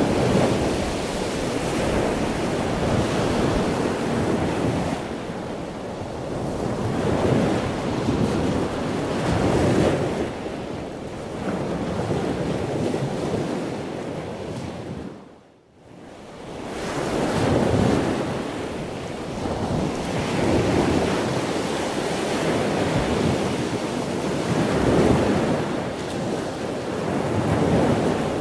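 Rushing surf of ocean waves, swelling and easing every few seconds, cutting out for a moment about halfway through.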